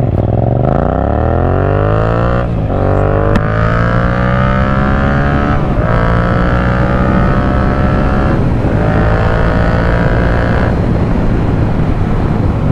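2021 Yamaha MT-07's 689 cc parallel-twin engine through an Akrapovic carbon full exhaust, accelerating up through the gears. The revs climb, dip at three upshifts, then ease off near the end.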